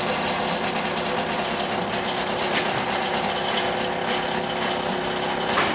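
Stepper motors of a CNC foam-cutting machine running steadily as it traces the column's outline, a steady whine with a few faint ticks and the vibration typical of stepper motors.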